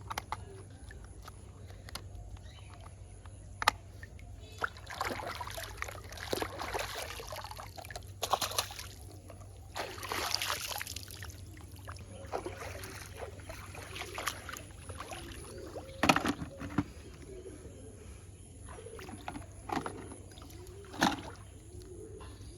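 Water sloshing and splashing in short bursts, with scattered sharp clicks and knocks.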